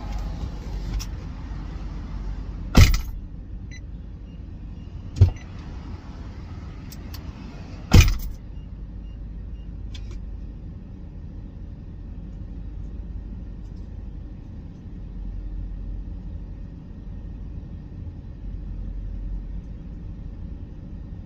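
A car engine left idling, heard from inside the cabin as a steady low rumble. Three sharp knocks come in the first eight seconds; after the last one the sound is more muffled.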